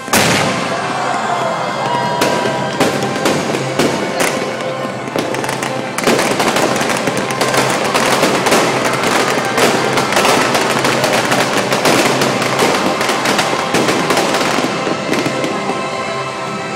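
A fireworks display going off in a dense, rapid run of bangs and crackling bursts, loud throughout and growing denser about six seconds in. Music plays underneath.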